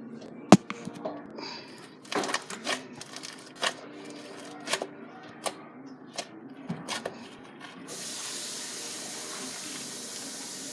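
Foam bead slime being squeezed and poked, giving irregular crunchy pops and crackles. About eight seconds in a steady hiss starts and continues.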